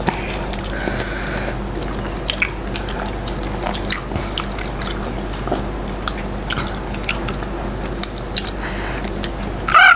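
People eating sauce-coated fried popcorn chicken: chewing and biting with wet mouth sounds and many scattered small clicks.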